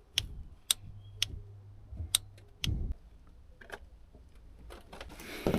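Sharp metallic clicks of a wrench, roughly one every half second at first and then more spread out, as a bolt is tightened through its torque-plus-angle steps, with one dull low thump a little under three seconds in.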